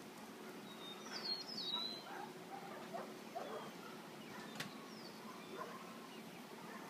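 A small bird chirping: a quick cluster of short, high, falling calls about a second in and a single call later, over a faint steady outdoor background. A single sharp click sounds about midway.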